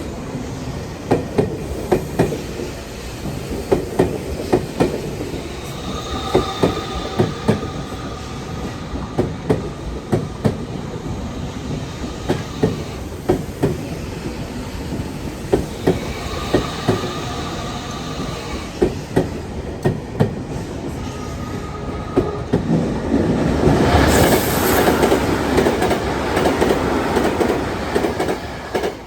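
Tokyu Meguro Line electric train passing over a level crossing, its wheels clicking rhythmically over the rail joints, with a brief high whine at times. Near the end the sound swells into a louder rush as a train runs past close by.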